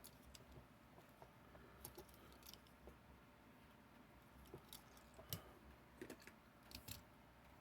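Near silence: room tone with a low steady hum and a few faint, scattered clicks and taps.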